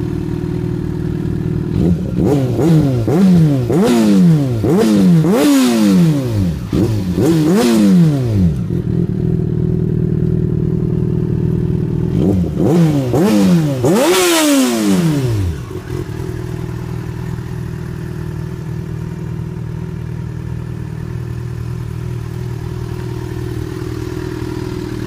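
Yamaha FZ6 Fazer's inline-four engine running through Akrapovic aftermarket exhausts. It idles, then gets a string of quick throttle blips about two seconds in that rise and fall in pitch. After a pause at idle come a few more blips, the last one the highest, and then it settles back to a steady idle.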